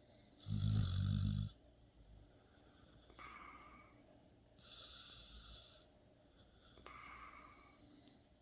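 Sleeping dog snoring: one loud, low snore about half a second in, then three quieter, higher-pitched snoring breaths at a steady breathing pace.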